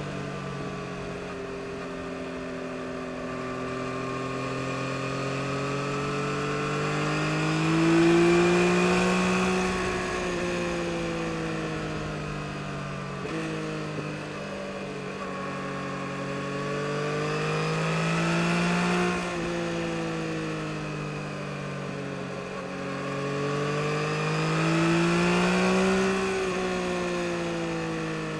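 A 2022 Yamaha MT-09 SP's 890 cc inline three-cylinder engine under way. Its pitch rises under acceleration and falls back three times, loudest about eight seconds in.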